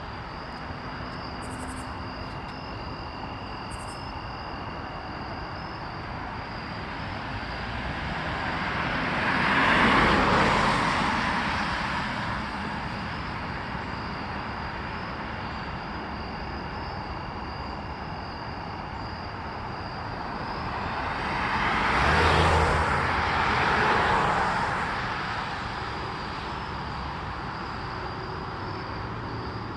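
Road traffic: two vehicles pass one after the other, each swelling up and fading away over a few seconds, the second with a deeper rumble. A steady high insect chirring runs underneath.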